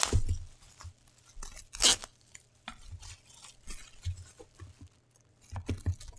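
Packaging being handled and opened: scattered rustles, clicks and soft knocks, with one loud tearing crackle about two seconds in.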